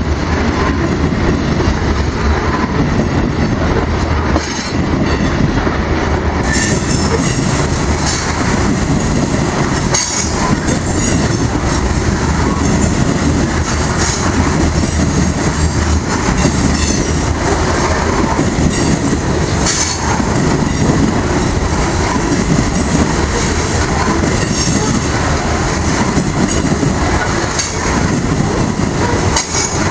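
Loaded grain train's hopper cars rolling past close by: a loud, steady rumble of steel wheels on rail with clacking over the joints and occasional high wheel squeal.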